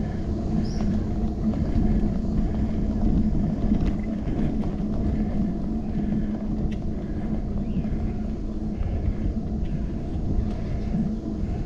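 Bicycle ride recorded from a handlebar-mounted GoPro: steady low road rumble and wind on the microphone, with a steady low hum and a few faint ticks.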